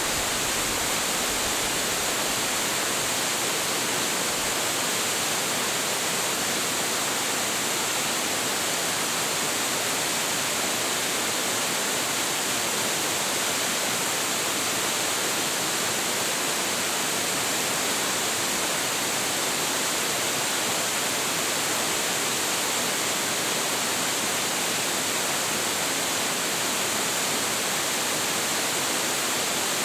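Hiji Ōtaki, a tall high-volume waterfall, pouring steadily: a dense, even rush of falling water with no breaks.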